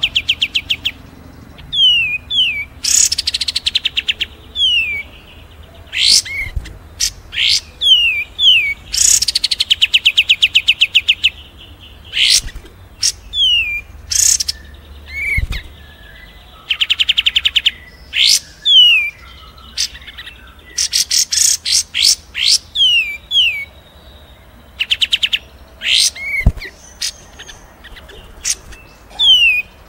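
Recorded songbird song in a dense mix: rapid trilling runs of many evenly spaced notes alternate with repeated short down-slurred whistles and sharp chips.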